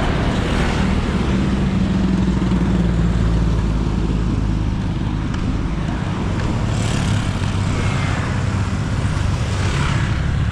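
Road traffic passing close by: a steady engine drone, loudest in the first few seconds, with another vehicle coming through later on.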